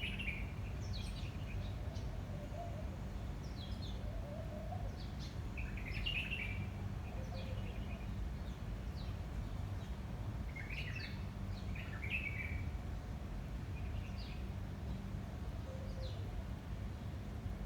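Small birds chirping in short bursts, with clusters of chirps every few seconds, over a steady low rumble of wind and a faint steady low hum.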